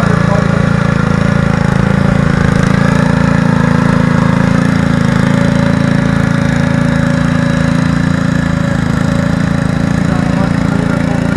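Garden tractor engine running loud and steady, with no change in speed.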